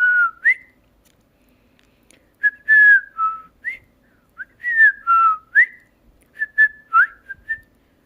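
A whistled tune of short sliding notes, some falling and some rising, repeated as a phrase three or four times with pauses between.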